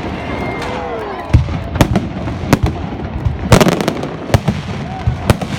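Fireworks going off: a string of sharp bangs about once a second, with a rapid cluster of several bangs a little past the middle, over a continuous background of crackle and rumble from the display.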